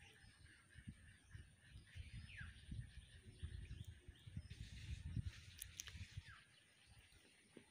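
Quiet outdoor ambience: a few faint, short, downward-sliding bird chirps over a soft hiss, with scattered low muffled bumps.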